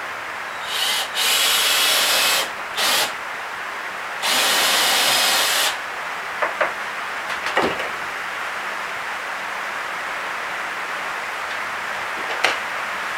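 A tool working dense hardwood in three steady hissing bursts, the longer two lasting about a second and a half each, followed by a few light knocks and clicks.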